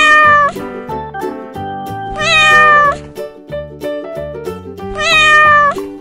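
A cat meows three times, evenly spaced about two and a half seconds apart, each call dropping slightly in pitch. Background music with a steady beat plays under the meows.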